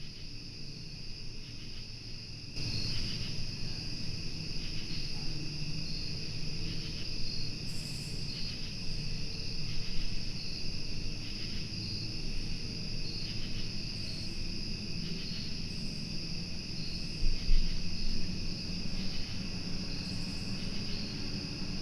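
Steady outdoor chorus of insects chirping in a high, evenly pulsing drone that grows louder about two and a half seconds in, over a low rumble, with one dull thump near the end.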